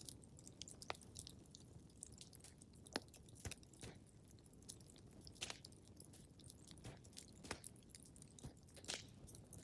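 Faint wood fire crackling in a fireplace: irregular sharp pops and snaps over a low, steady rumble, with the loudest pops about three seconds in, at about seven and a half seconds, and just before the end.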